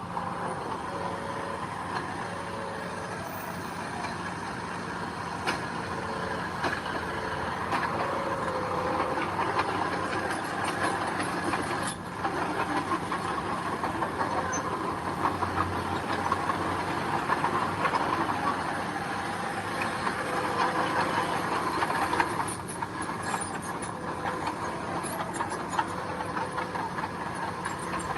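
Steady diesel engine noise of heavy earthmoving machinery at work, a bulldozer or dump truck running continuously.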